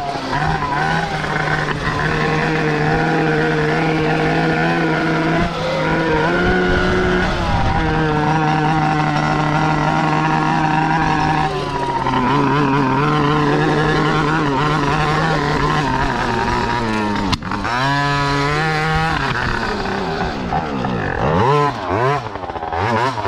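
A KTM 50–style carbureted two-stroke pocket-bike engine running at high revs. It drops out briefly about three-quarters of the way through and climbs again. Near the end it is revved out in several quick blips; the engine is still prone to flooding, which the rider blames on the cheap carb.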